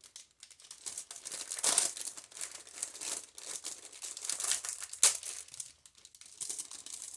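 Artificial flowers being handled, with irregular crinkling and crackling and a couple of louder crackles.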